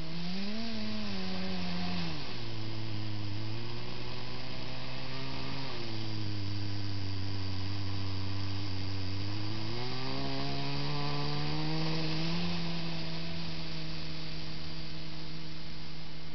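Kyosho Blizzard RC snowcat's electric motor and gear drive whining, the pitch rising and falling with the throttle. It climbs at the start, drops about three seconds in, runs low through the middle, then rises about ten seconds in and holds higher to the end.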